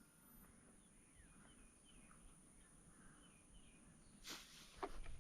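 Near silence with faint, scattered bird chirps, and a brief burst of noise about four seconds in.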